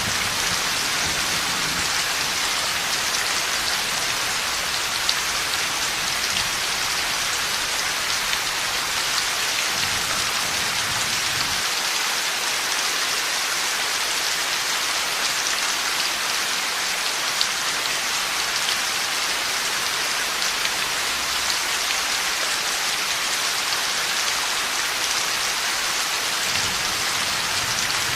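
Heavy rain falling steadily in a dense hiss, with scattered drop clicks. Faint low rumbles of distant thunder die away at the start, return about ten seconds in and again near the end.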